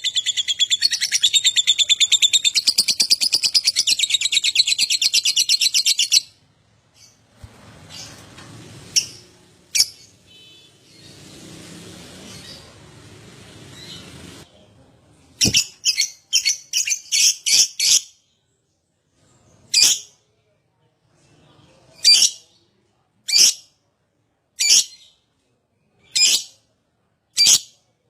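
Lovebird's long, rapid chattering trill (ngekek), which cuts off abruptly about six seconds in. After a quieter stretch come a quick run of sharp, shrill chirps and then single chirps about every second and a half.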